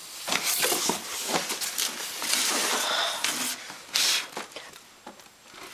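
Cardboard box and packaging being opened and handled: irregular rustling and scraping with small clicks, a sharp knock about four seconds in, then quieter.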